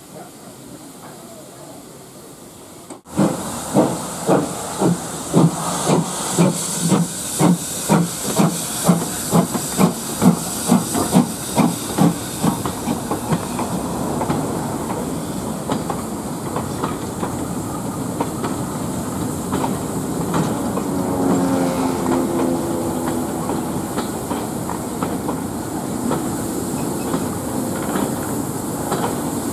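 Steam locomotive hissing steam, then pulling away: its exhaust chuffs start at about two a second, quicken, and blur into a steady rush as it gathers speed.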